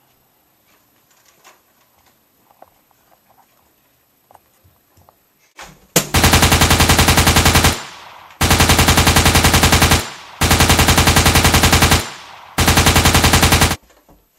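Four long bursts of rapid machine-gun fire, about nine shots a second, starting about six seconds in, each burst lasting one and a half to two seconds. Before them only faint scattered clicks and rustling.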